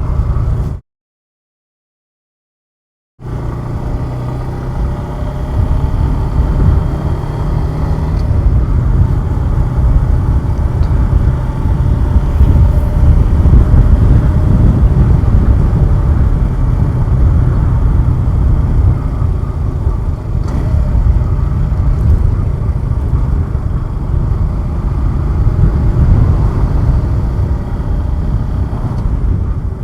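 Suzuki Gixxer 150SF's single-cylinder engine running under way, with heavy wind rush on the helmet or bike camera microphone. The audio drops out to total silence for about two seconds shortly after the start.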